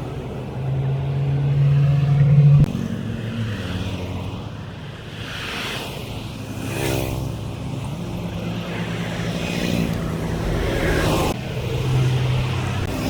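Road traffic: vehicle engines humming, with several vehicles passing close by and their noise swelling and fading.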